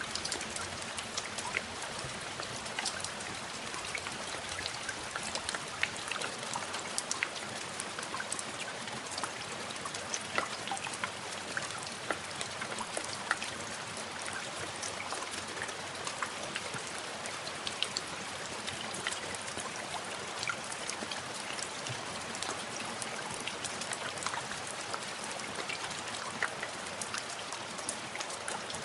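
Steady rain with many small drops pattering and ticking on a surface.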